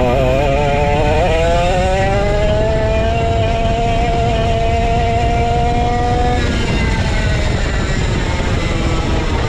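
Racing go-kart engine, a 135cc Sudam on a vintage kart, running hard: the revs waver, then climb for about two seconds and hold high, and drop away about six seconds in as the throttle comes off. Another engine note rises under it near the end.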